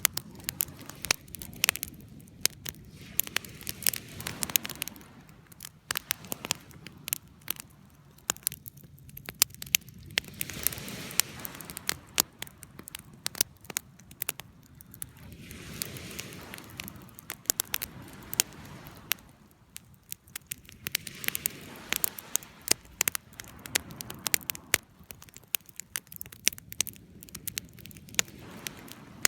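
Wood fire crackling, with sharp irregular pops and snaps over a soft hiss of burning that swells and fades every few seconds.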